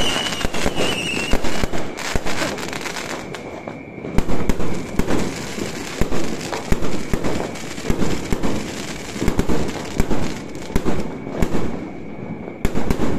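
Aerial fireworks going off at close range: crackling shell bursts at first, then a steady run of sharp bangs at about two a second as shells launch and burst overhead.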